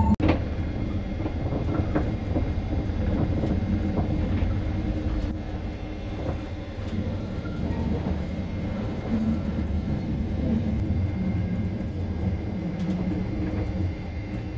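Metre-gauge electric passenger train running along, heard from inside the passenger car: a steady low rumble of wheels on rail, with occasional faint clicks.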